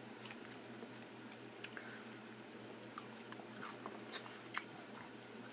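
A person chewing food close to the microphone, with scattered soft crunches and wet mouth clicks. A faint steady hum runs underneath.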